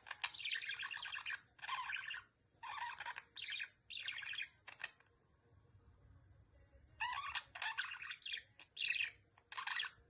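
Budgerigar chattering and warbling in quick bursts, with a pause of about two seconds midway.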